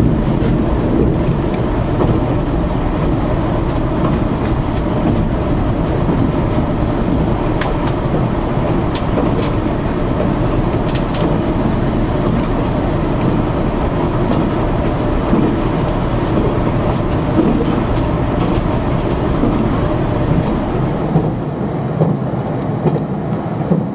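Passenger-cabin noise of a KiHa 261 series 1000 diesel limited-express railcar on the move: a steady rumble of the diesel engine and the wheels on the rails, with a few light clicks. The rumble eases slightly near the end.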